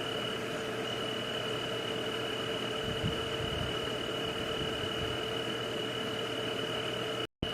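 Steady white-noise night ambience: an even hiss carrying two constant tones, one high and one low. It cuts out completely for a moment near the end.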